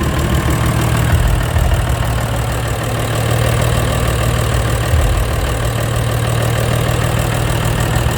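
Big diesel truck engine idling steadily with a deep, even rumble.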